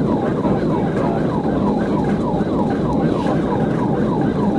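Police car siren on a fast yelp, about four quick sweeping wails a second, over steady road and engine noise from the cruiser running at high pursuit speed.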